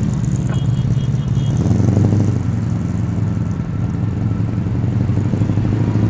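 Ford Falcon XY GT's 351 Cleveland V8 running at low speed with a lumpy, loping idle, typical of a big camshaft.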